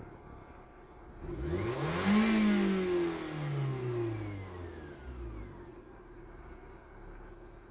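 Volvo S40 1.8-litre four-cylinder petrol engine (B4184S11) idling, blipped once about a second in: the revs climb quickly, then fall back slowly to a steady idle, as in a running test of a used engine.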